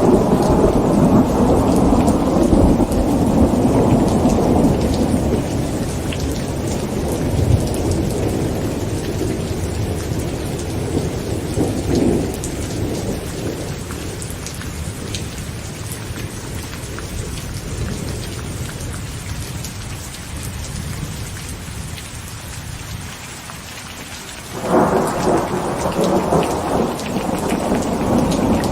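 Heavy rain on a tent with rolling thunder: a long rumble fades away over most of the stretch, then a fresh peal of thunder breaks suddenly near the end.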